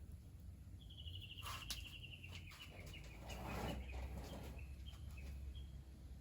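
A bird's rapid trill, starting about a second in and falling slightly in pitch, then trailing off into a few separate short notes. A sharp click and a brief rustle come during the trill.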